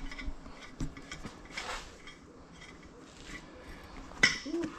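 Metal parts and tools being handled, giving scattered light clinks and taps, some with a short metallic ring, and a sharper clack about four seconds in.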